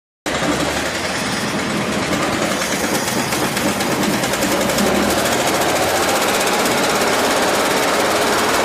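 1963 Chevrolet Corvair's air-cooled flat-six engine running steadily with a fast, even pulse. It is fed on gasoline poured straight into the carburetors because the fuel pump is dead, and this is its first run after sitting six years.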